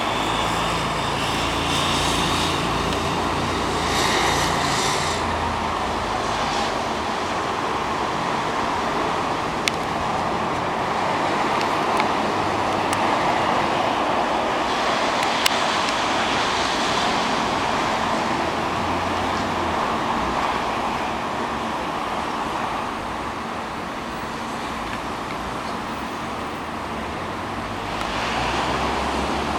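Boat engine running steadily under a constant rush of water and wind noise.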